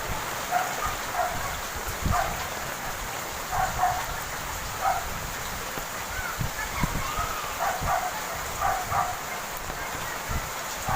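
Steady rain falling, with short, high calls repeated over it in small clusters.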